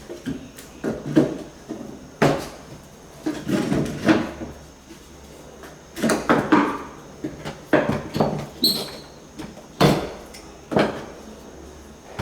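Irregular wooden knocks, scrapes and clatter of hardwood floorboards being handled and fitted into place, with a few sharp, louder strikes.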